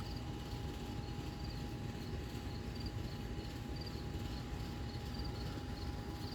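A cricket chirping in short regular pulses, about two a second, over a steady low rumble and a faint continuous tone.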